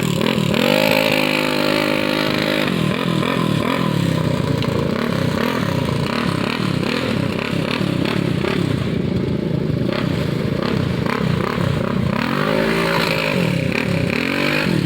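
Off-road ATV engines revving hard, their pitch rising and falling again and again, with more than one engine overlapping. One engine climbs to a high, held rev in the first few seconds, and another revs up and back down near the end.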